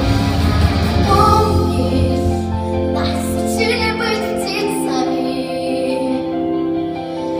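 Children's voices singing a slow song with instrumental accompaniment, holding long notes.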